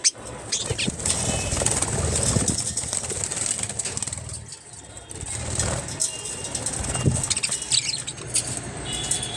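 Budgerigars in a colony flapping their wings, with scattered short chirps and clicks.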